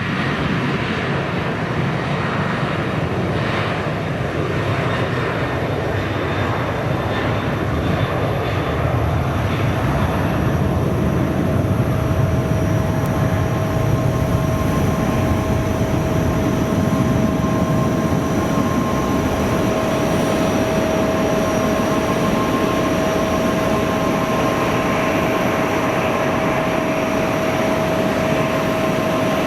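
Airliner engines running loud and steady, with a whine that sets in about a third of the way through and holds on one pitch.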